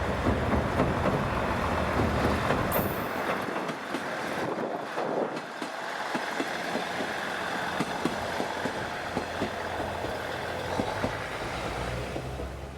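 KiHa 110 series diesel railcar running on the rails, its wheels clicking over the track under a steady rumble, with a low engine drone that fades about four seconds in and comes back near the end. A short high hiss comes about three seconds in.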